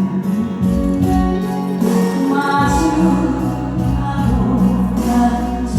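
A woman singing a slow Korean ballad over band accompaniment, holding long notes.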